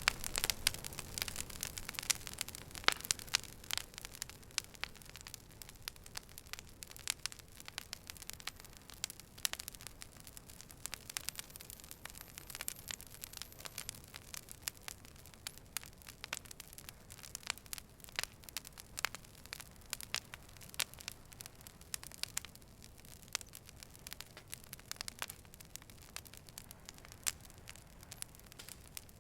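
Wood fire burning with dense, irregular crackles and pops over a soft hiss, the crackling busiest in the first few seconds.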